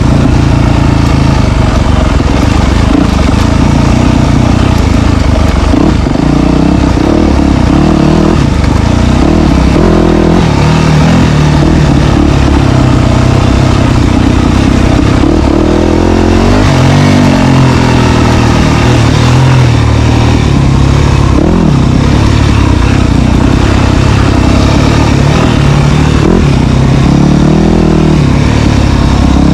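Dirt bike engine running loud, its pitch rising and falling as the throttle is opened and rolled off.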